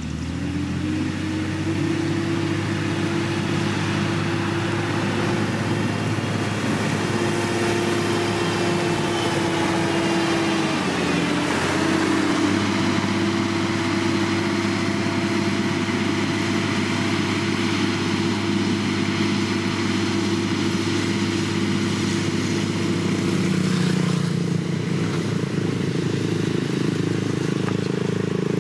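Diesel engine of heavy road-building machinery running steadily, growing louder over the first two seconds, with small changes in pitch now and then.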